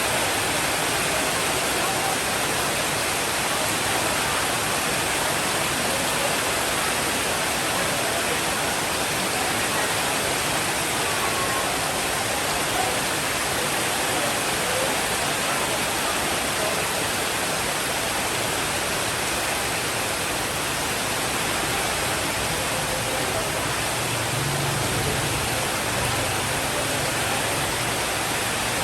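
Steady, even rainfall without a break. A faint low rumble of distant thunder comes in near the end.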